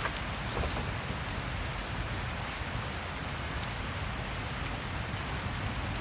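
Steady rain ambience mixed with a fireplace, a couple of faint crackles from the fire near the start.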